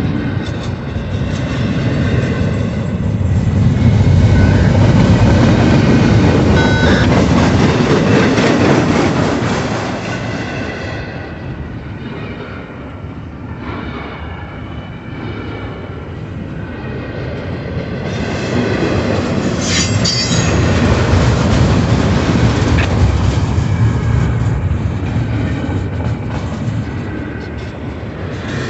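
Double-stack container cars of a freight train rolling past close by: a continuous rumble and clatter of wheels on rail that swells and eases as the cars go by, with a few short high wheel squeals, the sharpest about twenty seconds in.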